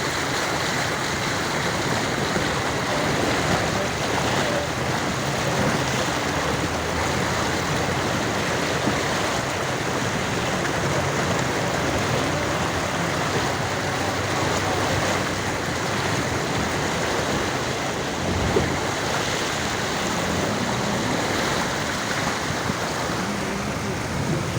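Suzuki Mehran driving through deep rain water on a flooded street: a steady rush and splash of water churned up around the car.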